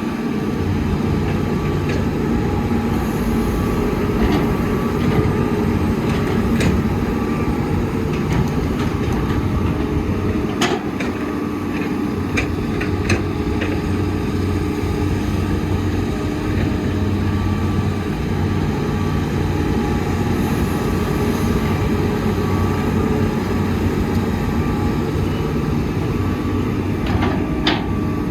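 Heavy diesel engine of a Komatsu excavator running steadily under load while it digs and loads dump trucks, with a few sharp knocks, several bunched in the middle and a pair near the end.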